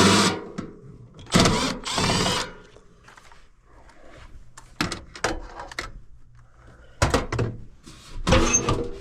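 Irregular metal knocks, clunks and a couple of short scrapes from sheet-metal parts and tools being handled while screws are fitted on an air handler's blower assembly.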